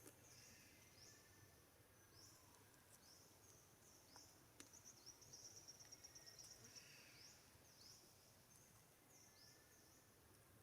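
Faint woodland ambience: short, high-pitched chirps sweeping downward repeat about once a second, with a quick run of chirps about five seconds in.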